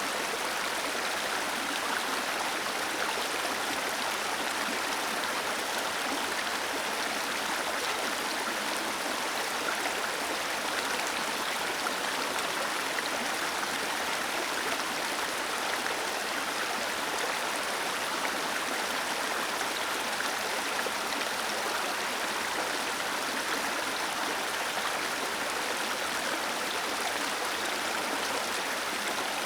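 Waterfall water cascading and splashing, a steady even rush of falling water with no changes.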